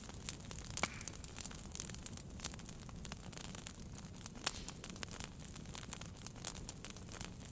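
Wood fire burning in a fireplace: a low steady rumble of the flames with irregular sharp crackles and pops, two louder snaps about a second in and about halfway through.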